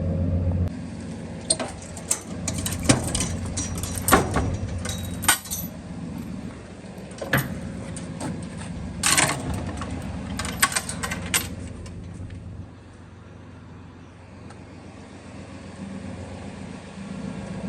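A vehicle's low steady hum with scattered sharp clicks and clattering, most of them in the first twelve seconds, then a quieter stretch before the hum swells again near the end.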